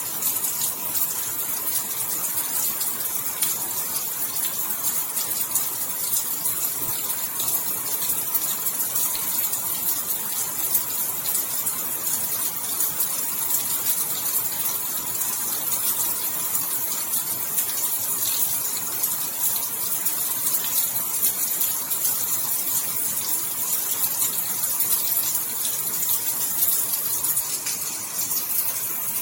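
Rain falling steadily: an even hiss made of countless fine drop ticks, with no change in strength.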